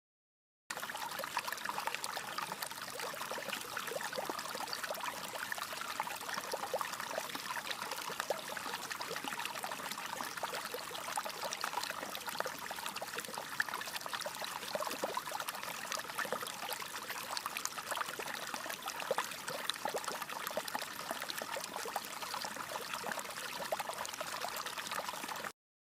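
Water trickling and splashing steadily, with many small crackles. It cuts in abruptly just under a second in and cuts off abruptly near the end.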